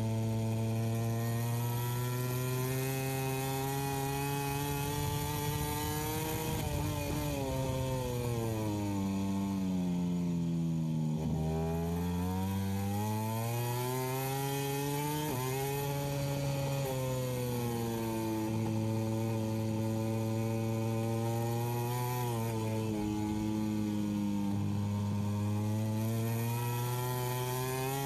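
A small engine running continuously at a steady level. About a third of the way in its pitch sinks slowly over several seconds and then climbs back, and it dips again briefly later on.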